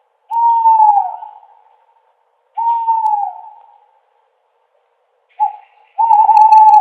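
Owl hooting: two hoots that drop in pitch at the end, a short clipped hoot, then a longer, steadier hoot near the end.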